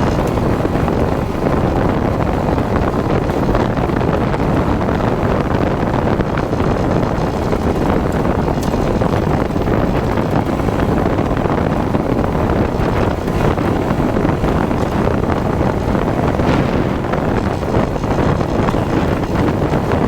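Steady, loud wind buffeting on the microphone while riding a dirt bike, with the motorcycle's engine running underneath.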